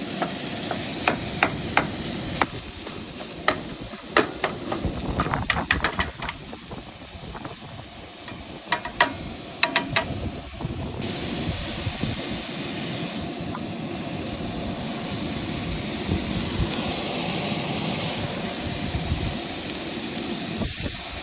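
Camp cooking on a small portable grill: a metal utensil clinks and knocks against the pan many times in the first half, then the food sizzles with a steady hiss.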